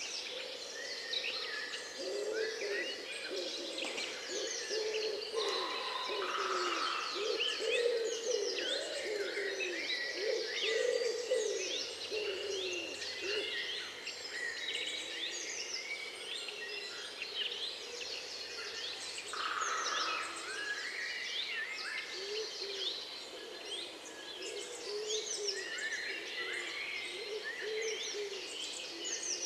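Chorus of many wild songbirds chirping and trilling at once, over a series of low, repeated calls from another bird.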